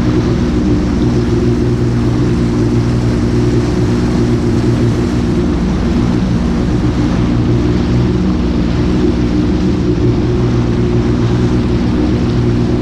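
Jet ski engine running steadily at cruising speed, a constant drone with an even hiss over it.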